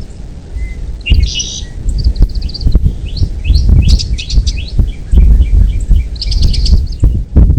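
Bird chirping: several runs of short, high chirps and quick twittering notes, over a loud, uneven low rumble.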